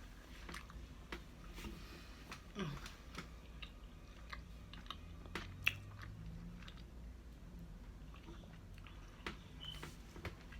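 A person chewing candy, with scattered small crunches and clicks.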